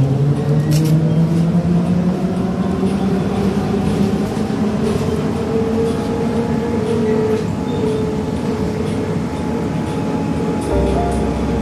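ZiU-682G trolleybus under way: the electric traction motor's whine climbs slowly in pitch as the trolleybus gathers speed, then settles to a steady tone over road and cabin rumble. There is a sharp click about a second in.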